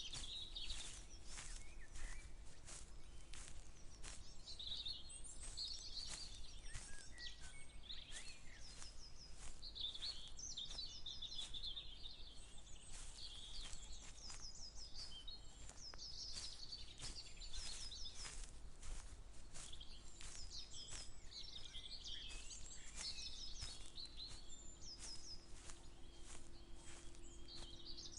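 Several songbirds chirping and singing in short high notes and quick repeated trills, over a steady low rumble. Footsteps tick about twice a second throughout.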